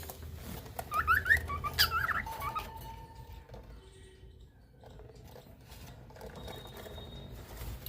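Small cage birds giving a few short chirps in the first two seconds or so, then only faint sounds.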